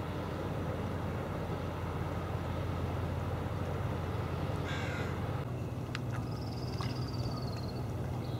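Birds calling over a steady low rumble: one short harsh call about halfway through, then a higher, rapid trill that falls slightly near the end.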